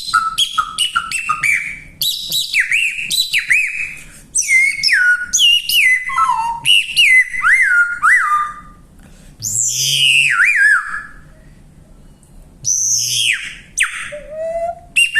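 Handmade stainless steel bird-call whistle blown in quick runs of short chirping notes, most of them sliding down in pitch, with a few brief pauses and a couple of longer falling calls.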